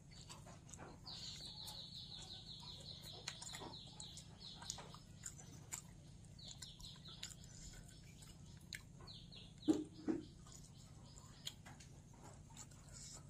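A small bird's rapid trill of high chirps, about eight notes a second, each note dipping slightly in pitch; it comes in three runs, the first lasting about four seconds. Scattered small clicks run through it, and two low thuds come close together about ten seconds in.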